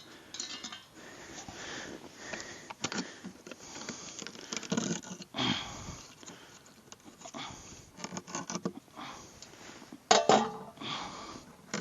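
Small clicks, scrapes and rustling as the seal on a plastic oil jug is punched through with a probe thermometer and pulled off, with a louder burst of handling about ten seconds in.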